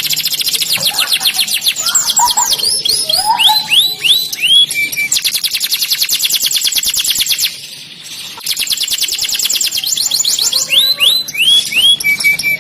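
Canary singing: fast rolling trills of rapidly repeated high notes, alternating with slower runs of sweeping whistled notes. The song pauses briefly about eight seconds in, then resumes.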